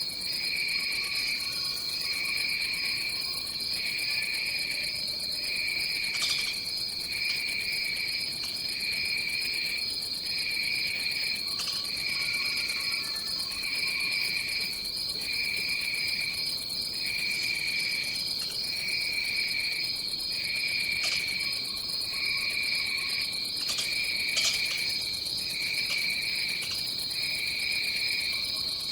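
Tropical rainforest insect chorus: a steady high-pitched drone with a lower trill pulsing about once a second, some faint short calls, and a few brief clicks.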